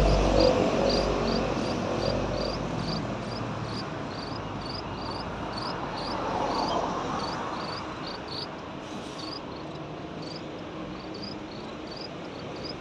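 Steady series of short high chirps, about two a second, over a low rumble that fades out in the first two seconds.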